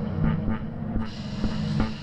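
Electronic IDM/ambient music from an Elektron Model:Samples groovebox: a low sustained bass tone under irregular, clicky sampled percussion hits. About halfway through, a brighter hissy layer comes in on top.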